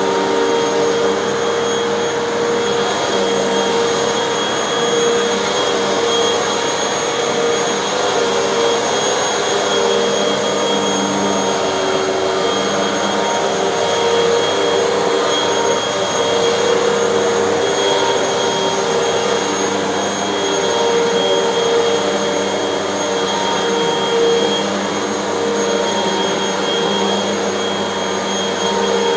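Hoover bagless upright vacuum cleaner running steadily on carpet, its motor whine wavering slightly as it is pushed back and forth.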